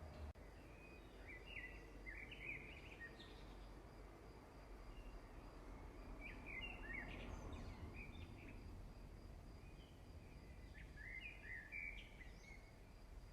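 Faint bird chirping: three short bouts of quick chirps, about two, seven and eleven seconds in, over a low steady background rumble.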